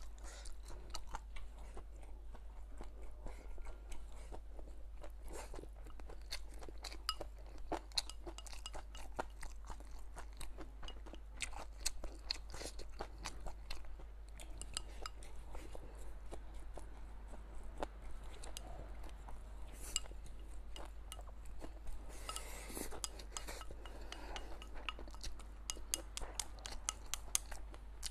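Close-miked chewing of hot and sour stir-fried chicken giblets with rice: a dense run of small crunches and wet mouth clicks.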